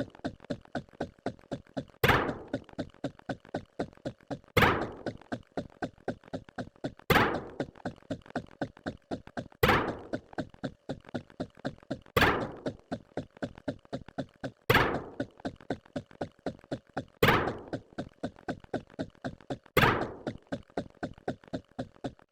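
A looped sound-effect pattern of short taps, about four a second, with a louder thunk every two and a half seconds.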